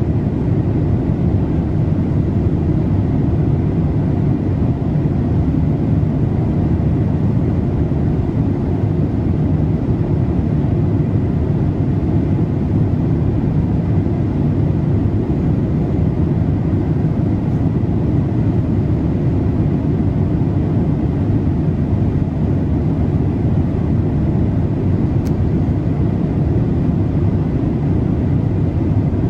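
Steady low cabin noise of a Boeing 787-8 in cruise: a deep, even rush of engine and airflow with no change in level. A faint steady tone sits high above the rush.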